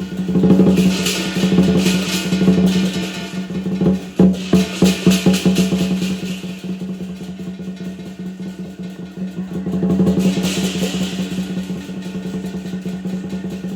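Lion dance percussion: a drum beaten in fast rolls, swelling louder a few times.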